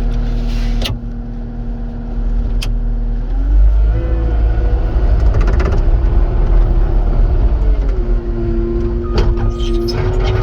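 Cat 259 skid steer's diesel engine running at low speed, then revved up about three and a half seconds in and held at higher speed, dropping back a little near the end. A couple of sharp clicks sound in the first few seconds.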